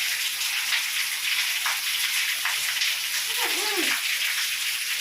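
Steady rain falling, an even, continuous hiss: raining hard, solid and steady.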